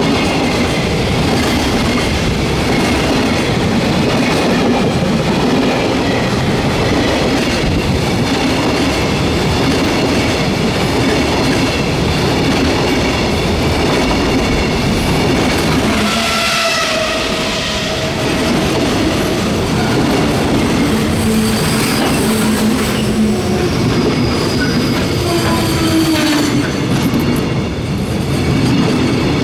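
Koki container freight wagons rolling past at close range, a steady rumble and clatter of wheels over the rails. Brief squealing tones rise above it now and then past the middle.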